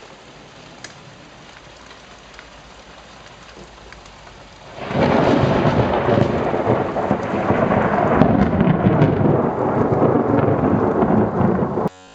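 Steady rain falling with scattered drop ticks, then about five seconds in the thunder of a very close lightning strike: a sudden loud thunderclap that runs straight into a heavy rumble for about seven seconds and cuts off abruptly near the end.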